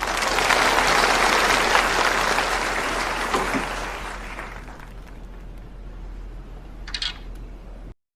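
Audience applauding, loudest in the first few seconds and then dying away. A single short click comes near the end, and the sound then cuts off abruptly.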